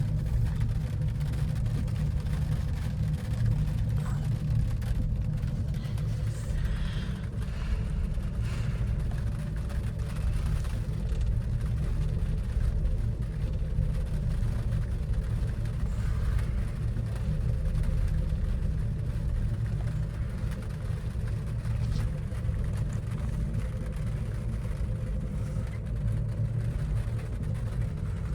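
Steady low rumble and hum of a gondola cabin riding up its cable, heard from inside the cabin.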